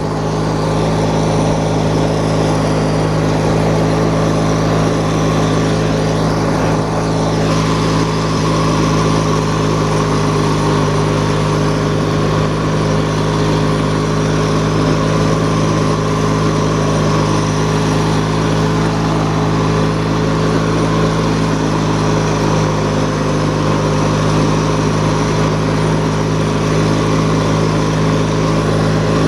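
Opposed-twin engine of a Hechinger garden tractor running steadily with its hood on; quiet for an opposed twin.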